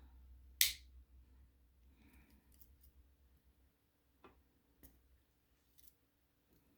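A Swiss Army knife set down on a hard surface with one sharp clack, followed a few seconds later by a couple of faint clicks as its tools are handled.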